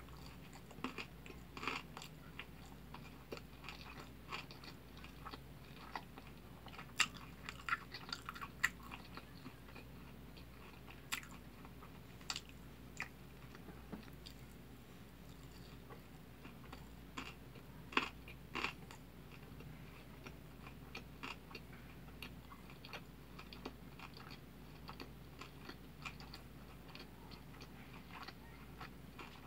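A person chewing a big mouthful of kimbap (Korean seaweed-and-rice roll): irregular small wet clicks of mouth and teeth, busiest in the first several seconds and again a little past the middle, over a faint steady hum.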